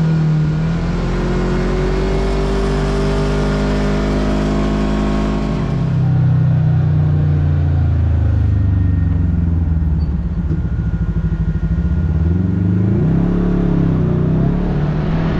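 Kawasaki KRX side-by-side's parallel-twin engine running under way, its pitch climbing slowly for about six seconds, then dropping off, with one more brief rise and fall near the end.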